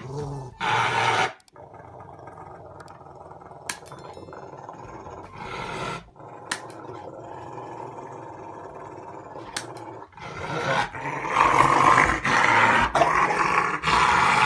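A dog growling, loudest and roughest over the last four seconds.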